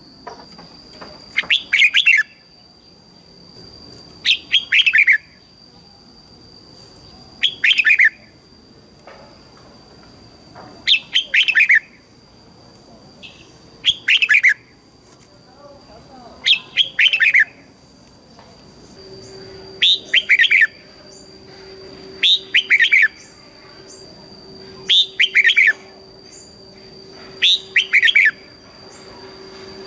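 Red-whiskered bulbul singing short doubled phrases, each a quick pair of bright whistled notes, repeated about every three seconds. A faint steady high whine runs underneath.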